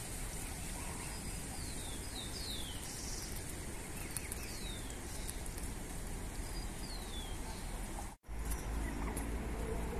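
A bird calling in short, high, descending whistles, five or six times, over a steady outdoor rumble. The sound drops out briefly near the end, and a low hum follows.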